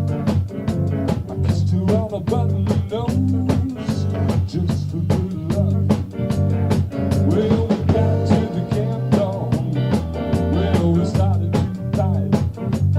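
A rock band's recorded song playing: a drum kit keeping a steady beat under bass and a lead line of bending notes, with no sung words.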